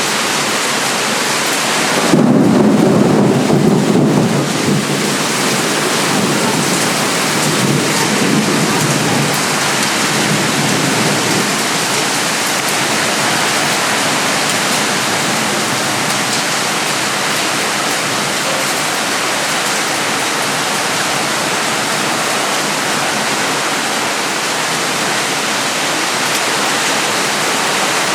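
Heavy rain pouring steadily, with a long low rumble of thunder about two seconds in and a second, weaker rumble around eight seconds.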